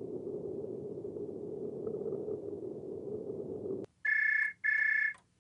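A low, steady rumbling noise cuts off abruptly just before four seconds in. It is followed by two high electronic beeps of the same pitch, each about half a second long, with a short gap between them.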